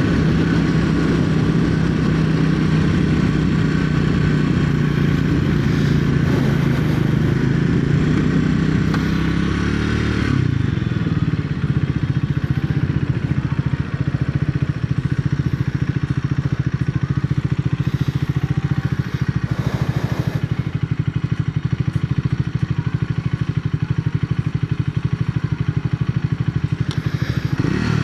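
Triumph Speed 400's single-cylinder engine running under way, a steady thumping note that rises slightly and then drops to a lower, pulsing note about ten seconds in as the revs fall.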